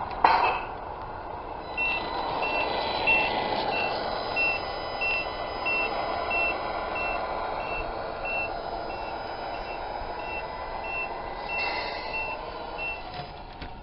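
Reversing beeper of a Tamiya 1/14 Scania Highline RC truck's sound unit: a steady series of short, high beeps of one pitch, about one and a half a second, starting about two seconds in and stopping near the end, over a steady engine hum from the same speaker.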